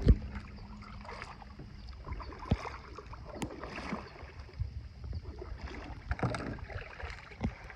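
Kayak on the water: scattered light knocks of a paddle against the hull over quiet water sounds, with a sharper knock at the very start.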